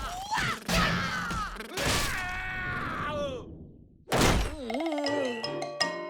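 Cartoon sound effects: a character's groaning, sliding cries broken by a few heavy thuds, then a wobbling tone and short tuned mallet-like music notes near the end.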